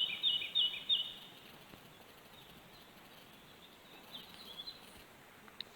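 Birdsong: a bird singing a quick run of repeated high notes in the first second, then a few short chirps about four seconds in, over faint outdoor hiss.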